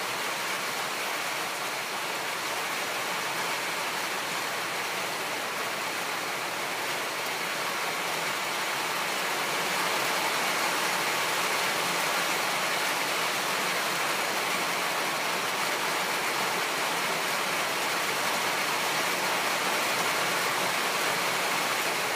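Rain on the tin roof of a shed, heard from inside: a pretty loud, steady hiss that grows a little louder about halfway through.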